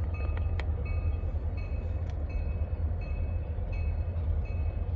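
Diesel locomotives, EMD SD40-2s with two-stroke V16 engines, rumbling steadily with a deep, even low drone. Faint short high chirps come and go over it.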